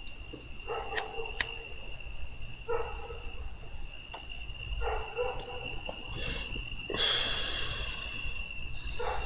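Crickets trilling in one steady high note, with two sharp clicks about a second in and a stretch of hiss around seven seconds.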